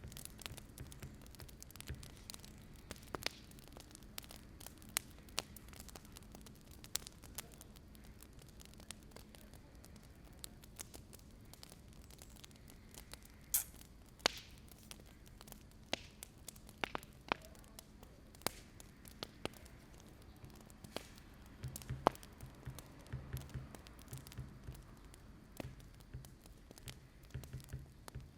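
Wood fire crackling: irregular sharp pops and snaps, a few of them louder, over a faint steady hiss and low hum.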